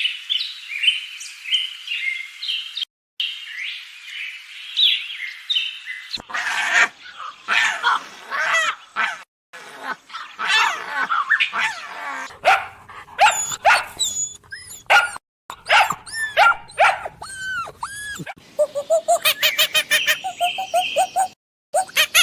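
A run of short animal clips joined by quick cuts: a dog barking and yipping among high chirping calls, with a fast series of short repeated calls near the end.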